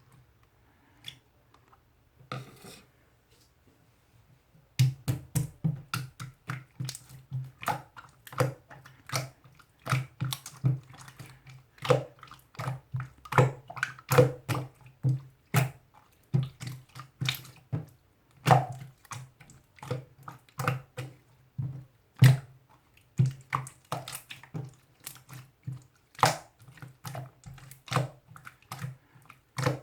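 Typing on a keyboard: a few scattered key clicks, then from about five seconds in a rapid, irregular run of clicks, several a second.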